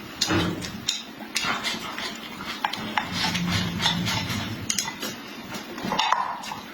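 Close-up eating sounds: chewing and mouth noises with many sharp clicks and crackles, likely alongside light clinks of cutlery or dishes.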